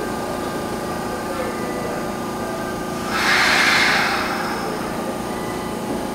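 Electric train at the platform during coupling work, with its equipment humming steadily. About three seconds in comes a hiss lasting about a second.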